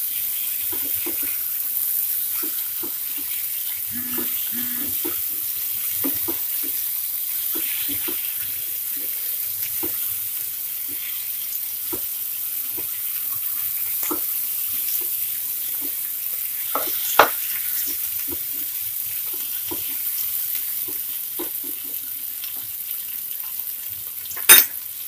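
Pumpkin pieces sizzling in oil and masala in a nonstick kadhai while a slotted spatula stirs them, with steady hissing and frequent short scrapes and taps of the spatula against the pan. There is a louder knock about 17 seconds in and the sharpest one near the end.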